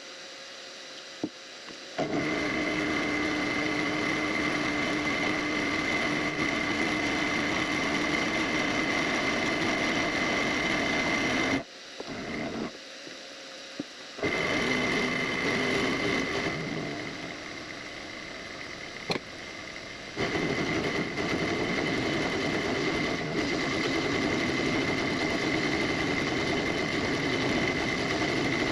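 Small benchtop machine tool running with a steady whine while it takes a chamfering pass across an aluminium block. The machine starts about two seconds in, cuts off briefly near the middle, and runs quieter for a few seconds before picking back up.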